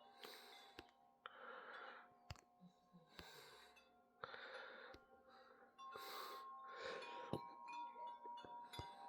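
Wind chimes ringing faintly in a gusty wind: lingering metallic tones with short rushes of noise and a few sharp clicks.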